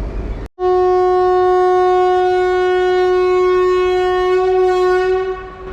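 Train horn giving one long, steady single-tone blast of about five seconds that eases off near the end. A brief stretch of train running noise just before it is cut off abruptly.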